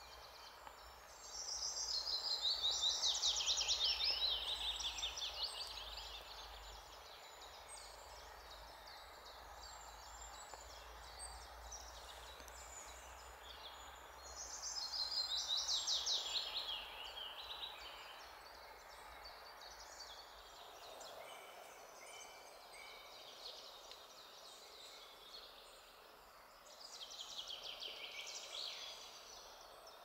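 A songbird singing three times, roughly ten seconds apart, each song a fast run of notes falling in pitch and lasting a few seconds, over a faint steady background hiss.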